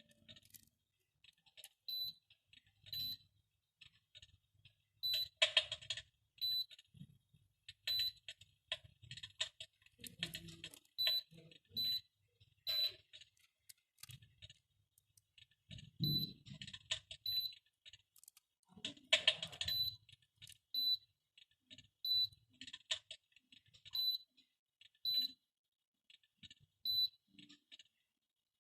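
Short, high electronic beeps from an electric fireplace's controls, repeated irregularly about once a second, mixed with scattered clicks.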